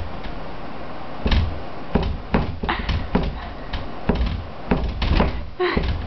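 Kitchen door bumped into over and over, giving a run of about eight to ten irregular knocks and thuds as it hits against its frame.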